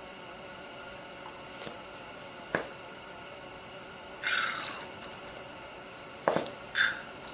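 10W40 motor oil being squeezed from a small bottle into the gear housing of a hand-cranked forge blower: a couple of sharp clicks and short hissing squirts of liquid over a faint steady background.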